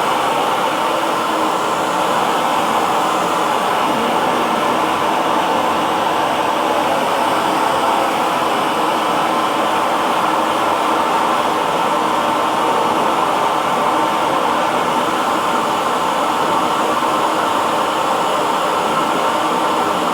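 Hair dryer running steadily: a continuous, even blowing hum with no change in pitch or level.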